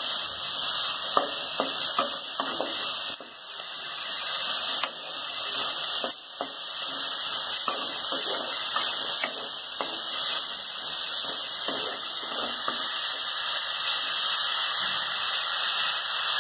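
Shallots and dried red chillies sizzling in hot oil in a pan, a steady hiss, with light scrapes and taps of a wooden spatula stirring them.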